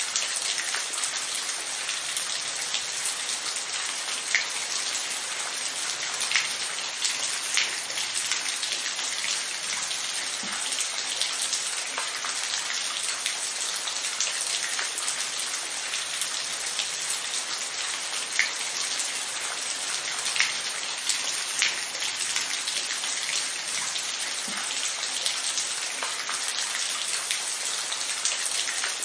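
Steady rain falling, an even hiss with scattered louder individual drops tapping every few seconds.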